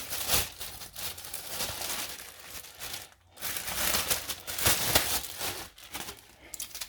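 Irregular rustling and crinkling handling noise, with many short scrapes and ticks and a brief lull about three seconds in.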